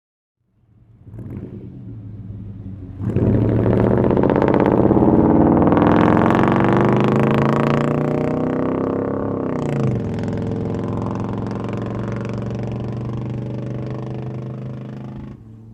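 1990 GMC K1500's 350 small-block V8 running through an uncatted true dual exhaust with two Jones mufflers. It comes in faintly, turns loud about three seconds in, and its pitch climbs under acceleration for several seconds. The pitch drops sharply near the middle, then the engine holds a steadier, quieter note until it cuts off.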